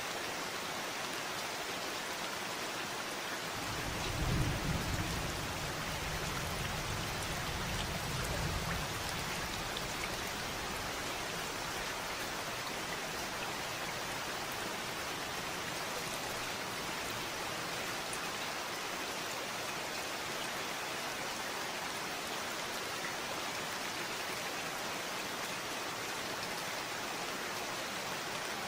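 Steady rain falling, with a low rumble of thunder starting about four seconds in and fading away about five seconds later.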